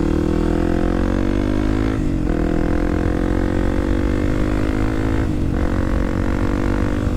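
Kawasaki KLX300SM's single-cylinder four-stroke engine pulling under acceleration, its pitch rising steadily in each gear. The pitch drops at upshifts about two seconds in and again about five and a half seconds in.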